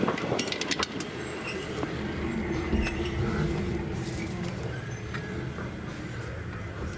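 Narrow-gauge passenger train running slowly, heard from on board: a steady low rumble of wheels on the rails, with a few sharp metallic clinks in the first second.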